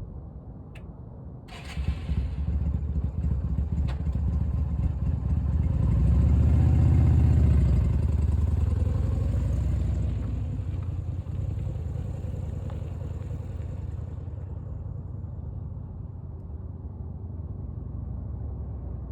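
An engine starts with a sudden clatter about a second and a half in and keeps running with a low rumble that swells for several seconds, then eases off.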